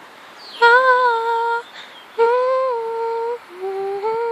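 A girl humming a slow, wordless tune in four long held notes, the last two lower and shorter.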